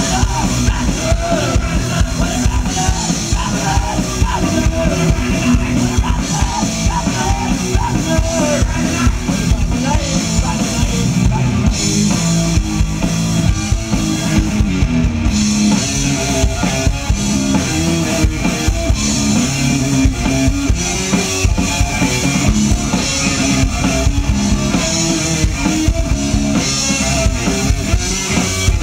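Rock band playing an instrumental passage at full volume, driven by a steady drum-kit beat, with no singing.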